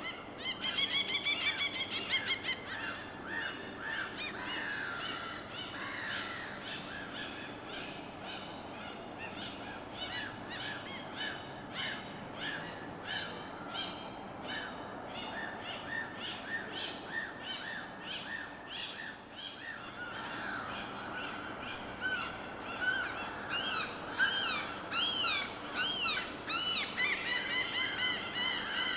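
Several birds calling over a steady background of water noise, with a dense chorus of short repeated calls. About a second in there is a rapid burst of high chirps, and near the end a run of louder rising-and-falling calls.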